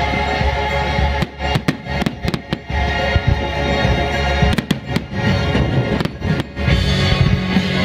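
Aerial fireworks shells bursting in an irregular series of sharp bangs, about a dozen, over loud music with held tones.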